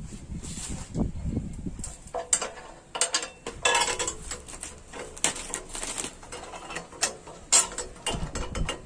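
Irregular metallic clicks, knocks and short scrapes from hand tools on metal parts during mechanical work.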